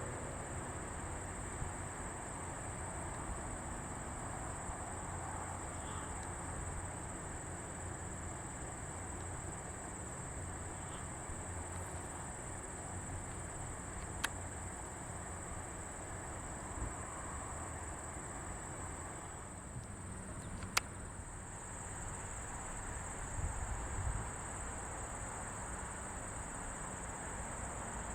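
Late-summer insect chorus: a steady, high-pitched, unbroken trill that dips slightly in pitch about two-thirds of the way through, over a low outdoor rumble, with a couple of sharp clicks.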